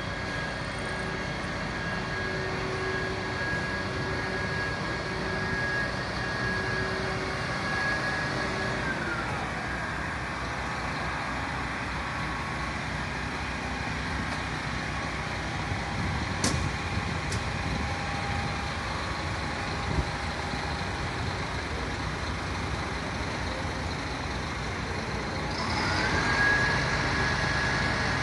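Fire truck machinery running steadily with a whine. The whine drops in pitch about nine seconds in and rises back near the end, like engine revs falling and climbing. A few sharp clicks come in the middle.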